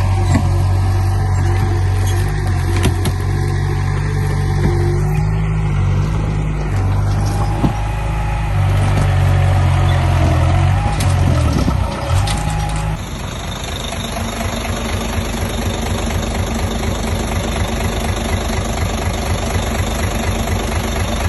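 Heavy diesel engines of construction machinery running, with the pitch shifting. About two-thirds of the way through the sound changes abruptly to a steady, rapid diesel clatter.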